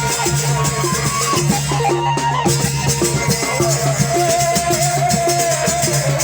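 Lombok ale-ale ensemble playing: percussion keeps a quick, steady beat under a melody line, over a low held tone.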